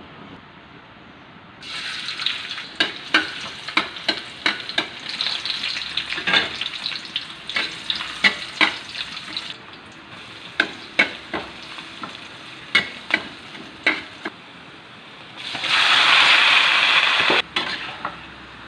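Food frying in a hot pan, sizzling while a cooking utensil stirs and knocks against the pan in many sharp clacks. Near the end comes a loud surge of sizzling lasting about two seconds.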